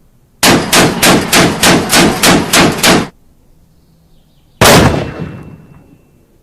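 A burst of automatic gunfire, about eleven rapid shots at roughly four a second, stopping after about three seconds. About a second and a half later, a single loud gunshot with a long echoing tail.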